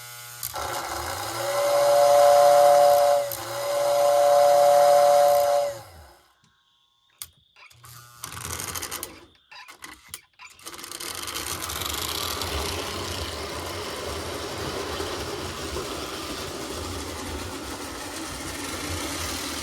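Lionel toy-train whistle blowing twice, each blast a steady two-note chord over a rushing hiss. After a few seconds of near silence with a few clicks, the restored postwar Lionel 1666 locomotive runs steadily on the track, with a low rumbling hum.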